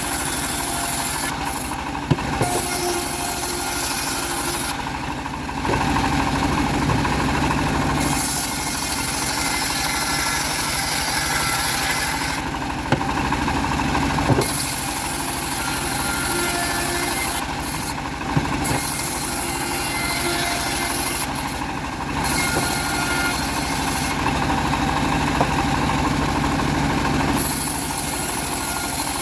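A home-built bandsaw mill running and sawing an old teak log: a steady machine drone that changes character every few seconds, with a few sharp clicks.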